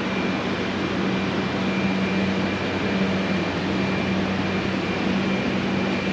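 Forced-air heater fan blowing steadily, with a low hum and a faint, thin high whine.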